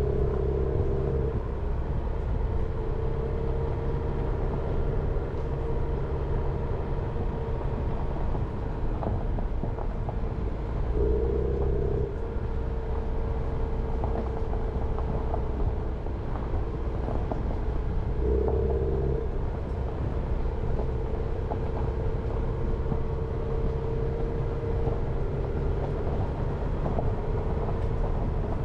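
Jeep Renegade driving along a road: steady engine and road rumble with a droning tone. The drone briefly changes three times, near the start and at about 11 and 18 seconds in.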